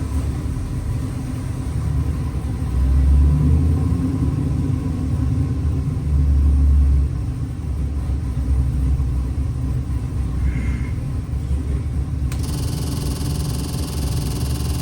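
Chevrolet LS3 6.2-litre V8 crate engine, built to about 500 hp, running on an engine dyno. Its exhaust rumbles steadily, swelling louder in two brief rev-ups about three and six seconds in. A hiss joins the sound near the end.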